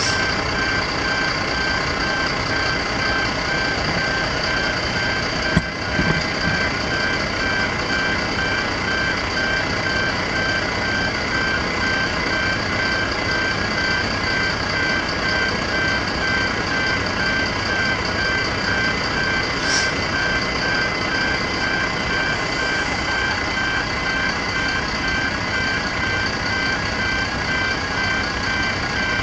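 Level crossing pedestrian gate alarms sounding continuously with loud, rapid electronic beeping, the crossing's Barker Technics electronic bells barely audible beneath them. A single knock about five and a half seconds in.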